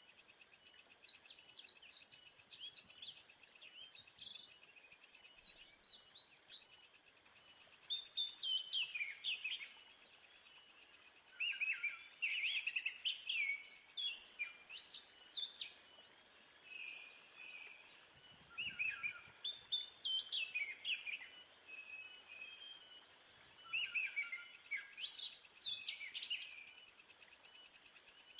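Small birds chirping and calling in quick, repeated short notes, over a steady, fast-pulsing high insect trill that fades out about halfway through and comes back near the end.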